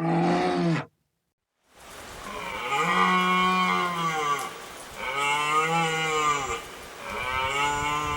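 Cow mooing: three long moos, each rising and then falling in pitch, after a short call that cuts off within the first second.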